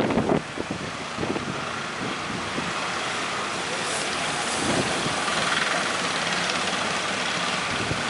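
Strong wind buffeting the microphone over a steady rush of sea and waves, with a couple of gusty thumps near the start and one about halfway through.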